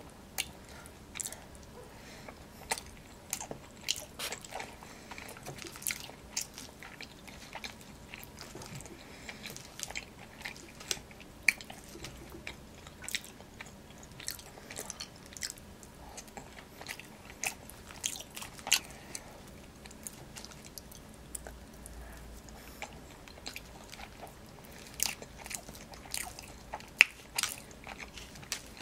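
Close-miked eating sounds: chewing of cheesy poutine and fries, with many irregular sharp wet clicks and smacks of the mouth.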